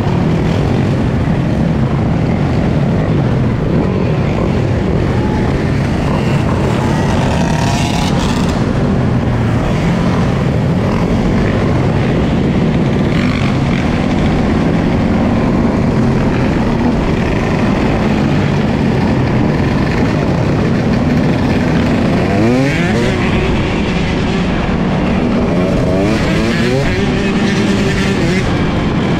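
Dirt bike engine running under way, revving up and climbing in pitch twice in the second half as it accelerates.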